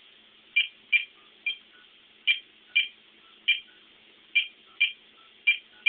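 Phone keypad beeping as a number is dialled: about ten short, identical beeps, pressed at an uneven pace.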